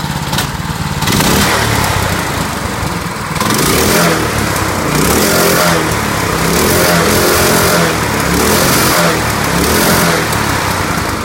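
Predator 212cc single-cylinder four-stroke engine running on its first start-up, revved up and let back down several times in quick succession.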